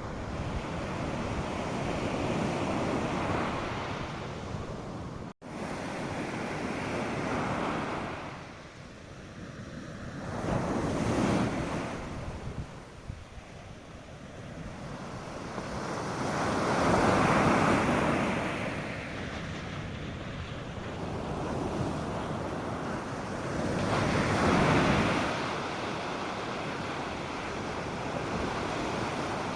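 North Sea surf breaking on the beach, the wash of the waves swelling and ebbing in slow surges roughly every six to seven seconds, with some wind on the microphone. The sound drops out for a split second about five seconds in.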